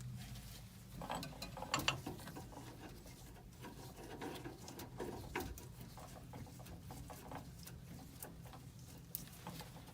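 Irregular small metallic clicks, taps and rattles of hand-tool work on furnace parts, over a low steady hum.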